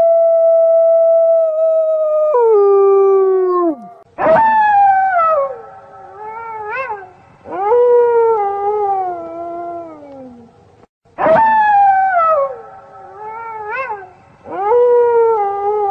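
A pack of wolves howling. One long, steady howl drops in pitch and dies away at about four seconds. Then several overlapping howls each start high and slide downward, with short rising yips among them. There is a brief break near eleven seconds, after which the chorus starts again.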